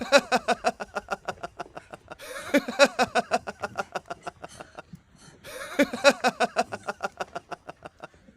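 A voice in three bouts of rapid pulsed calls, about ten pulses a second, each bout starting loud and trailing off.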